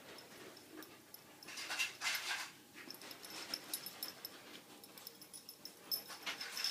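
Small bell on a kitten's collar jingling in short irregular shakes as the kitten moves and tries to get the collar off, with a burst of rustling and scuffling about two seconds in.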